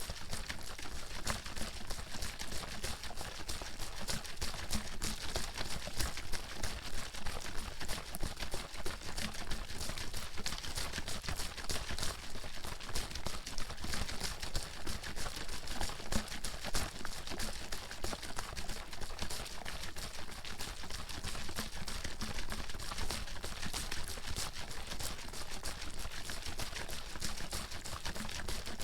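Water sloshing in a bottle that is being shaken continuously: a steady run of quick splashing strokes.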